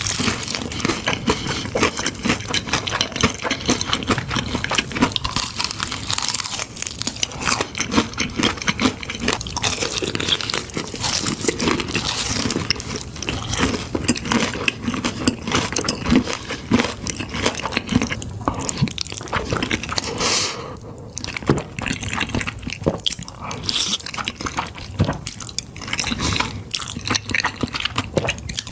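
Close-miked eating of creamy pasta: wet slurping, smacking and chewing of saucy noodles, with many small clicks and squelches.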